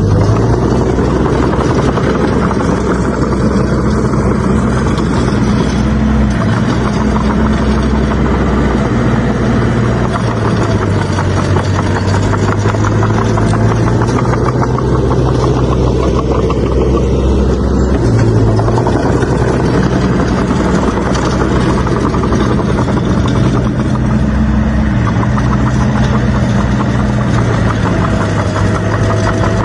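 Heavy diesel engine of earthmoving machinery running continuously under changing load, its low note stepping up and down every few seconds.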